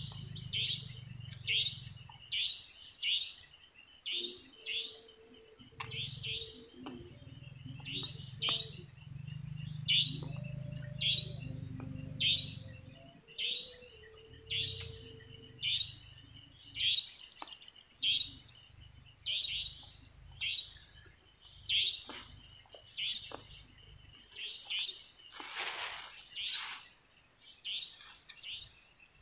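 A bird repeating a short, sharp, falling chirp about one and a half times a second, steady and unbroken, over a faint steady high whine.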